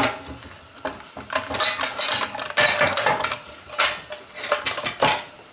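Metal parts of a hand-cranked forge blower clinking and scraping as they are handled and worked loose, a run of irregular clicks and rattles.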